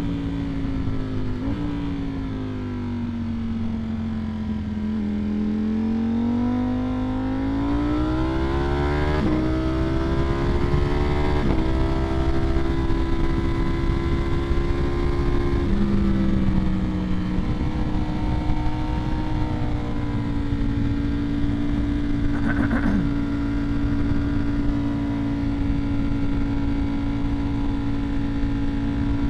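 Ducati Streetfighter V4S's 1103 cc V4 engine through an aftermarket Vandemon exhaust, heard while riding. The engine note falls as the bike slows, then rises as it accelerates through two quick upshifts about nine and eleven seconds in, and settles to a steady cruise for the rest.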